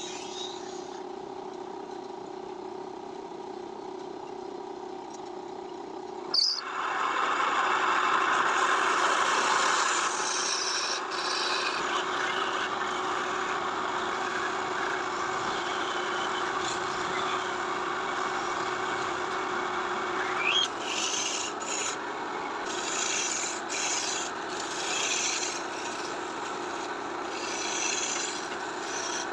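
Wood being worked with a tool: a steady machine hum throughout, then about six seconds in a loud rough rasping, rubbing noise sets in. It continues, breaking into shorter uneven strokes near the end.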